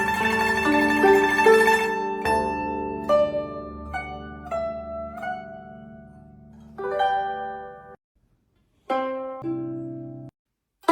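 Guzheng music: plucked strings ringing and fading, a busy run of notes in the first two seconds, then single notes spaced out. The sound cuts off abruptly to silence twice near the end.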